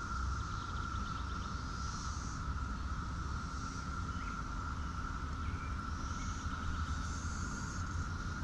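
Outdoor rural ambience: a steady low rumble under a continuous high-pitched drone, with a few faint short chirps.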